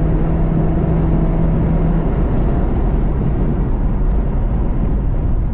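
BMW E36 318is four-cylinder engine and road noise heard from inside the cabin while the car is driven hard on track. A steady engine note falls away about two seconds in.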